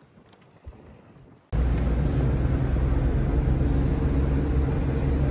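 A large engine idling close by, a loud, steady low rumble that starts abruptly about a second and a half in, after a quiet start with a few faint clicks.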